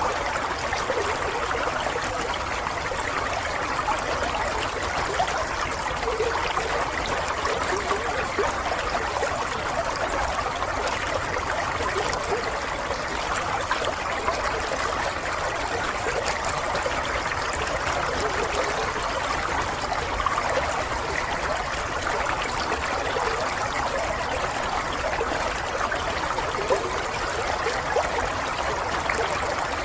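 Water flowing steadily in a small stream, an even babbling and trickling with no pauses.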